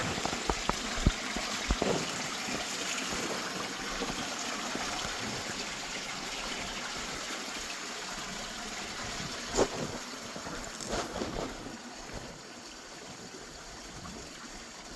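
Small waterfall and stream running, a steady rush of water that slowly grows fainter, with a few scattered knocks.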